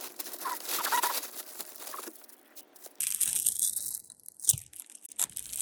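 Crinkling and rustling with small clicks as pieces of costume jewelry are handled and sorted by hand, in irregular spurts.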